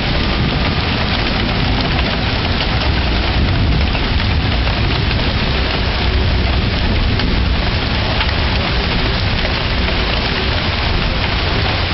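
Steady rain falling and splashing on hard ground, with a constant low rumble underneath.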